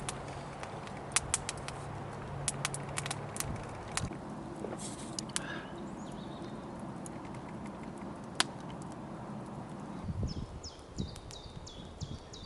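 Scattered sharp clicks in the first few seconds, then, about ten seconds in, a small bird calling with a quick series of short, high, falling notes.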